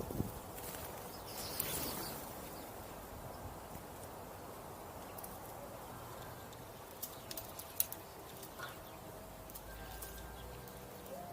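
Birds calling faintly over steady outdoor background, with a few short sharp clicks about two thirds of the way through.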